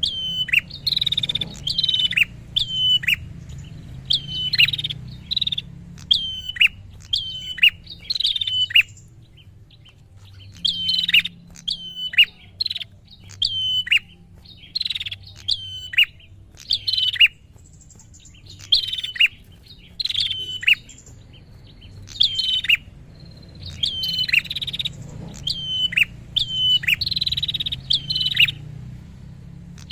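A prinia (prenjak) singing non-stop: rapid sharp chirps that each drop in pitch, in quick runs broken by brief pauses. These are the bird's agitated calls, as used to lure and rile rival prinias.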